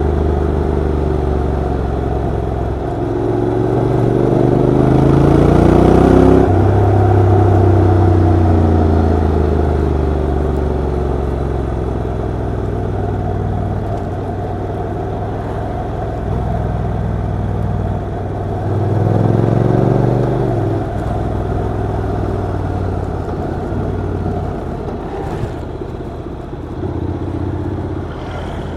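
Honda NC750X DCT motorcycle's parallel-twin engine running under way. The revs rise at about 3 seconds in and again at about 19 seconds, each time dropping suddenly as the gearbox shifts up; in between the engine holds a steadier note that slowly falls.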